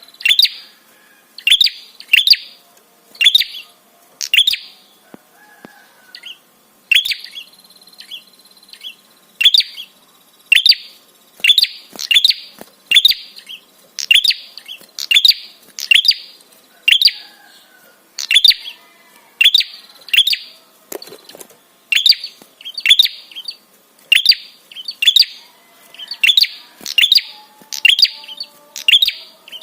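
Prinia (prenjak) giving a loud, sharp chirp over and over, often in quick pairs, about one to two calls a second. It is a lure call used to draw other prinias in to answer.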